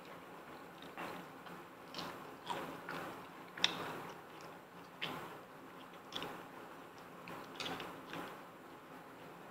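Close-up eating noises of lobster and garlic noodles: chewing and mouth sounds, with short crackles and clicks about once a second, the sharpest a little over a third of the way in.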